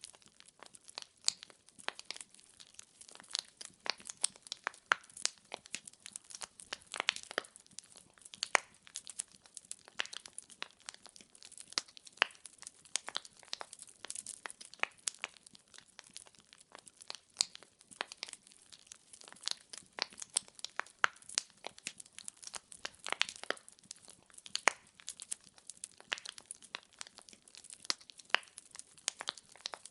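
Wood fire crackling and popping steadily: a dense, irregular run of sharp pops and snaps from burning logs, with no music.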